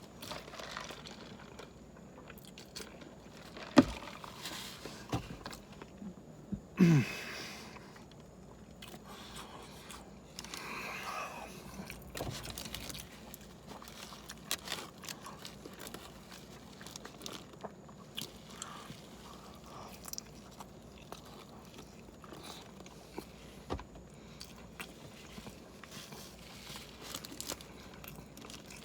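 A person chewing and biting through a 12-patty cheeseburger close to the microphone, with many small mouth clicks. There is a sharp knock about four seconds in and a short low grunt falling in pitch about seven seconds in.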